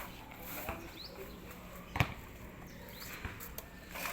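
A single sharp hit about two seconds in and another at the very end, over a quiet background with two faint, short, high rising chirps.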